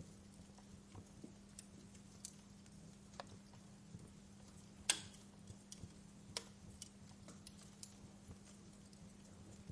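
Wood fire crackling: sparse, sharp pops and snaps at irregular intervals, the loudest about five seconds in, over a faint steady low hum.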